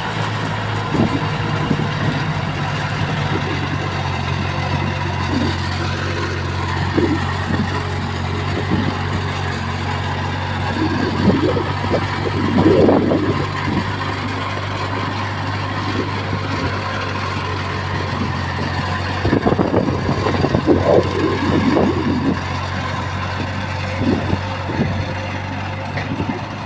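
Diesel engine of heavy earthmoving machinery running steadily, with louder, rougher stretches about twelve seconds in and again around twenty seconds.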